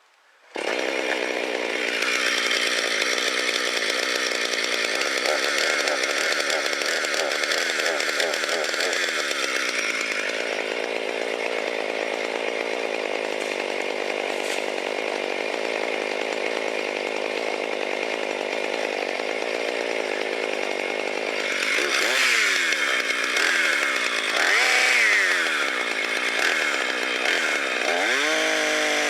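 Two-stroke chainsaw running steadily under load, cutting wood. It starts abruptly. From about two-thirds of the way through, the engine speed falls and rises again several times.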